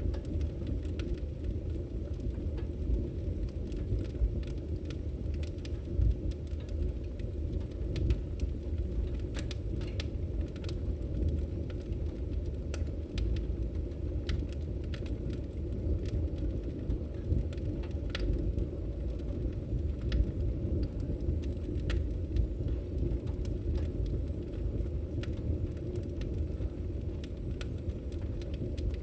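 Wood fire crackling in a fireplace: a steady low rumble of burning with irregular sharp pops and crackles scattered throughout.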